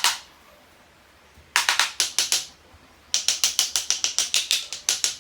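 Runs of sharp clicking taps: a single one at the start, a short run of about six a second and a half in, then a fast, even run of about five a second from about three seconds in.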